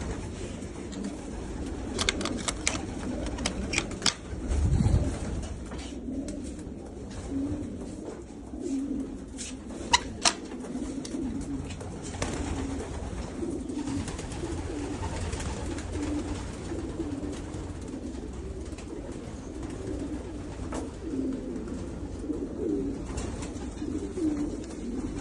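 Racing pigeons cooing, a continuous overlapping low murmur of coos. A few sharp clicks sound in the first half, and there is a dull thump about five seconds in.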